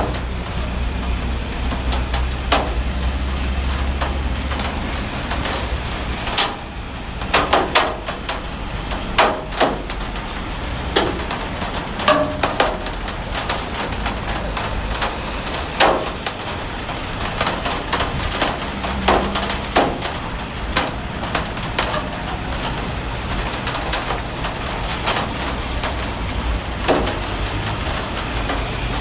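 Heavy rain falling steadily, with frequent irregular sharp drips and knocks of big drops striking hard surfaces over a low rumble.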